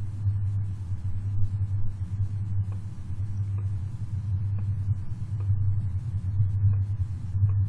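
Low, deep rumble centred around 100 Hz, wavering in level without a steady beat, picked up by a CCTV camera's microphone and played back with the bass boosted.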